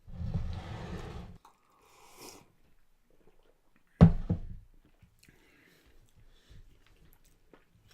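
Close-up chewing and mouth sounds of a person eating a curry meal, with small wet clicks and smacks. A rustling burst starts it, and a sharp knock about four seconds in is the loudest sound.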